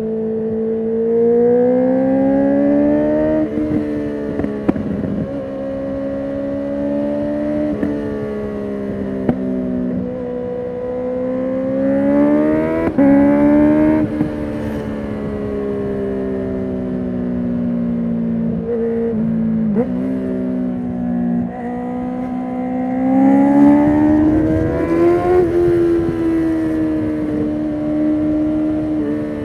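2019 Honda CB650R's inline-four through a full Akrapovic titanium exhaust with the dB killer removed, riding under load. The engine note climbs steadily, then drops suddenly at each gear change, several times over, with a few short sharp pops in between.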